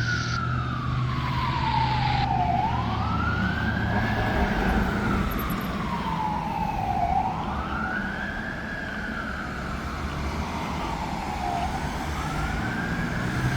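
Fire engine siren wailing: a tone that rises quickly and falls slowly, about three full cycles, each roughly four and a half seconds long, over the low hum of the truck's engine.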